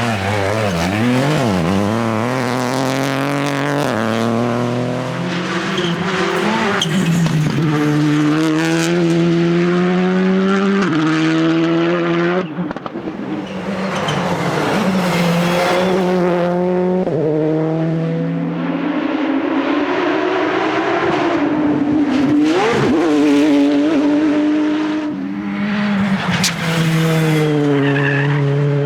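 Rally cars at full throttle on a special stage, each engine note climbing through a gear and dropping back sharply at the upshift, many times over.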